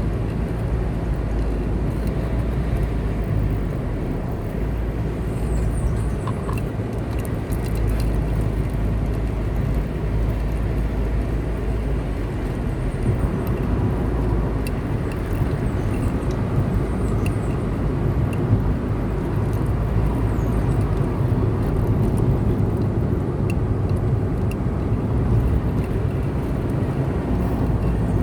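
A car driving steadily along a road, with a constant low rumble of engine and tyres on the pavement.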